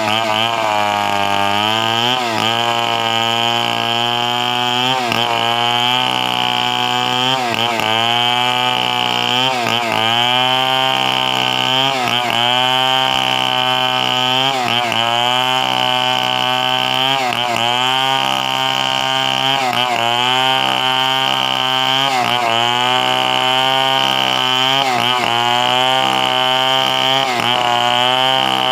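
Two-stroke chainsaw running at high speed. Its engine pitch dips and recovers about every two and a half seconds, the saw bogging under load as it bites into the wood on each stroke.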